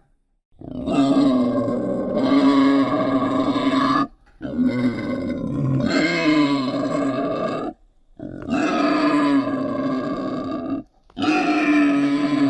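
Wild boar grunting in long, continuous runs, broken by three brief silences.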